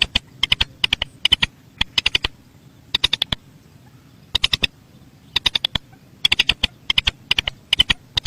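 Rail (mandar sawah) calling: a long series of short, dry ticking notes in quick clusters of three to five, about two clusters a second, with a few brief pauses.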